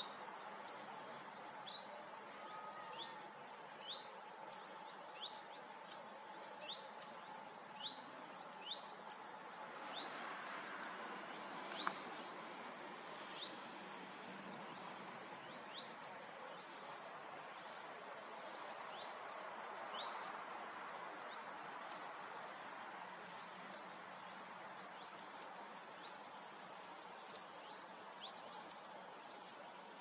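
A bird giving short, sharp, high-pitched chirps, roughly one every second or so, over a steady background hiss.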